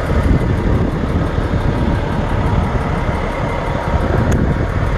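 Steady low rumble of idling semi-truck diesel engines.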